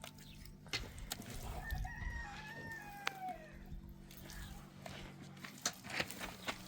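A rooster crowing once, a drawn-out call of about two seconds that falls in pitch at the end, with scattered sharp clicks and knocks around it.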